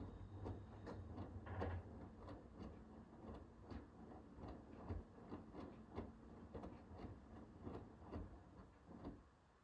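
Hoover H-WASH 500 front-loading washing machine turning its drum during a Cotton 60 wash: a faint, rapid run of soft knocks as the wet laundry tumbles, with a low motor hum in the first two seconds. The drum stops near the end.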